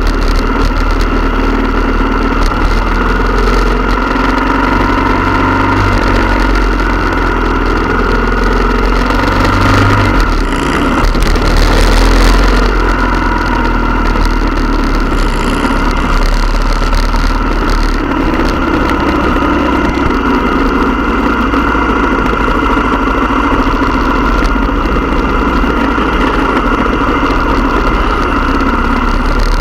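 Motorcycle engines running steadily throughout, with pitch shifts as the engines rev. There is a louder surge about ten to twelve seconds in.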